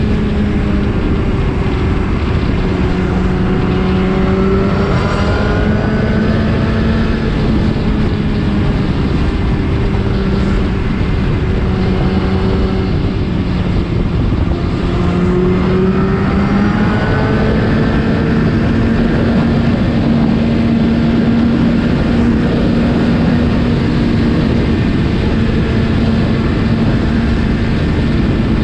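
Superbike engine with an aftermarket Akrapovič exhaust running at a steady cruise, its note dipping and rising gently twice with small throttle changes, over a constant rush of noise.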